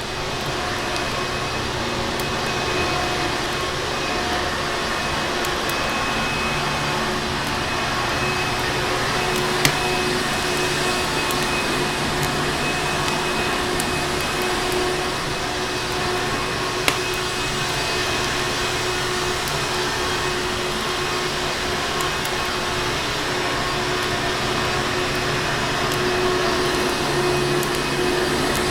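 Vacuum cleaner running steadily, a dense even rush with a constant motor hum, broken twice by a brief sharp click.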